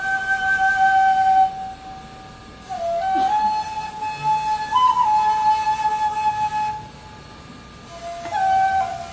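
Japanese bamboo flute playing long held notes with small pitch slides between them, in slow phrases broken by short pauses.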